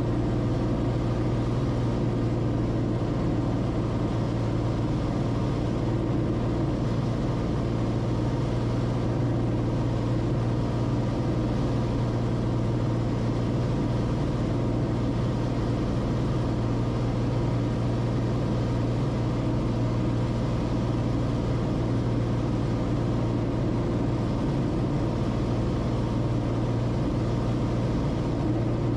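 Steady drone of the Cessna Corvalis TTX's turbocharged six-cylinder piston engine and propeller running at constant power, with no change in pitch or level.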